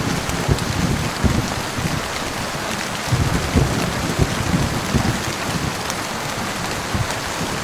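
Steady heavy rain, with short low rumbles coming and going underneath it every second or so.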